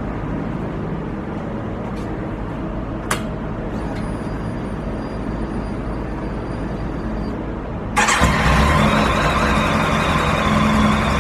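Low steady background noise with a sharp click about three seconds in and a faint high whine for a few seconds after it; then, near the end, a Kawasaki ZX-10R's inline-four engine starts suddenly and runs steadily.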